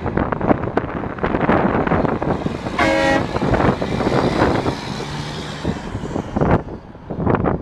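Heavy trucks rumbling past with wind buffeting the microphone; a short vehicle horn toots once about three seconds in.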